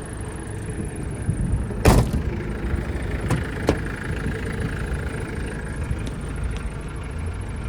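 The 1986 Mitsubishi Pajero's rear door is shut once, a single sharp bang about two seconds in, followed by two lighter clicks, over a steady low rumble.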